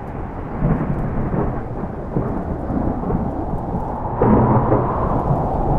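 Thunder rumbling over steady rain, with a louder roll of thunder starting about four seconds in.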